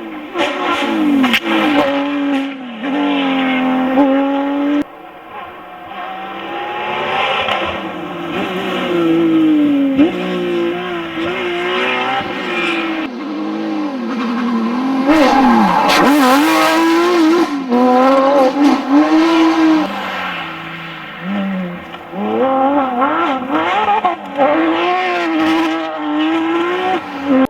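Porsche 911 GT3 RS rally car's flat-six engine revving hard, its pitch climbing and dropping again and again through gear changes and lifts. There are several abrupt jumps to different runs.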